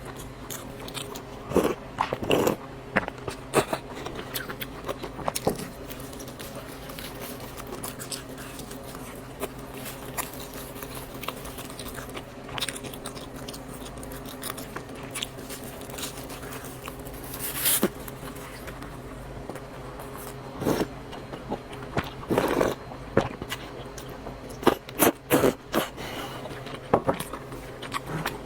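Close-up eating sounds of noodles: chewing, slurping and mouth smacks, with scattered short clicks in clusters over a steady low hum.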